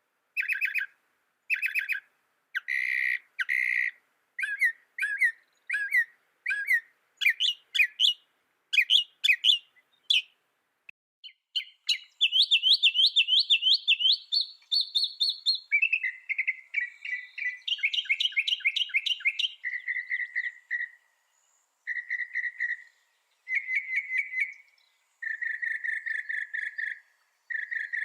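Mockingbird singing: a run of varied phrases, each repeated several times before it switches to the next, with a fast trill of rising notes about halfway through.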